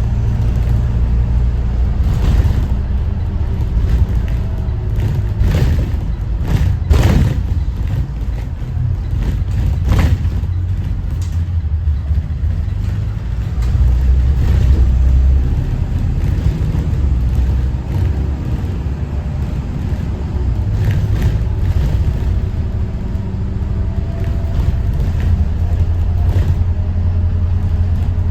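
Thomas Saf-T-Liner C2 school bus with a Detroit diesel engine, running on the road with a steady low rumble. Occasional sharp knocks and rattles come about 2, 7 and 10 seconds in.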